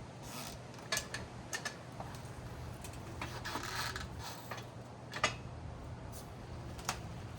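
Scattered sharp clicks and knocks, with a stretch of rubbing in the middle, from a manual tire changer being worked to break a motorcycle rear tire's bead off the rim.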